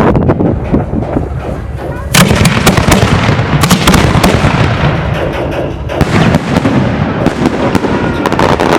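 Fireworks going off in a rapid, dense series of bangs and crackles, with a louder burst about two seconds in.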